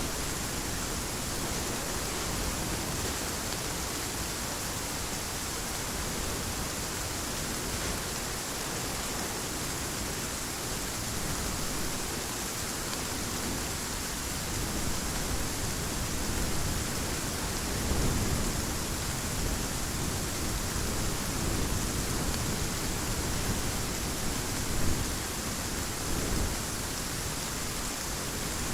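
Heavy rain falling in a steady hiss, with low rumbles of thunder swelling about two-thirds of the way in and a brief sharper crack a little later.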